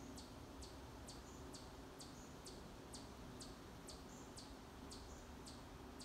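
A bird repeating a short, high chip note about twice a second, each note sweeping quickly downward, over a faint steady low hum.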